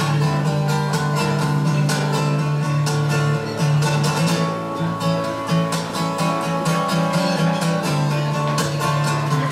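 Acoustic guitar being strummed, a steady rhythmic introduction to a song with no singing yet.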